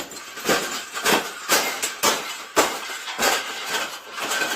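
A bird cage being bent and folded flat: a run of sharp knocks and crunches, about two a second.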